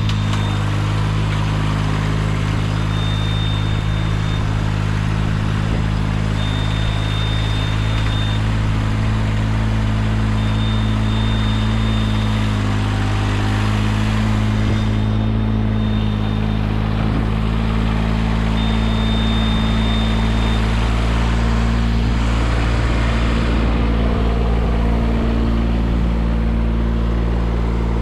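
Engine running steadily, its pitch shifting a little about halfway through, with a high electronic beep sounding on and off for a second or two every few seconds.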